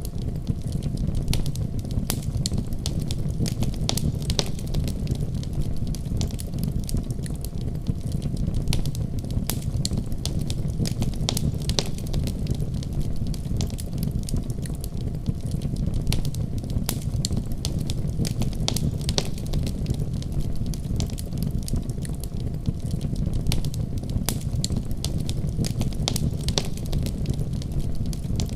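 Wood fire crackling steadily, with irregular sharp pops and snaps over a continuous low rumble.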